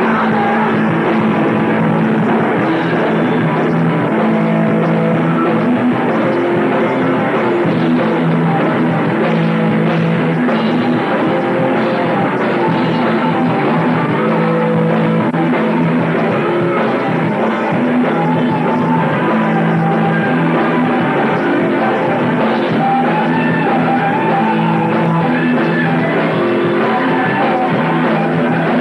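Heavy metal band rehearsing: electric guitar and drum kit playing steadily and loudly, captured on a rough bootleg recording.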